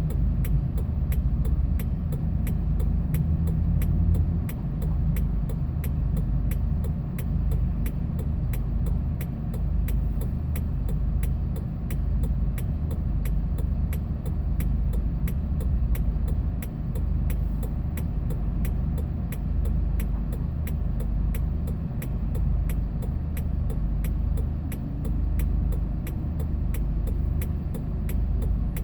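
Hyundai Porter II box truck driving: a steady low engine and road rumble, with a faint even ticking about two to three times a second.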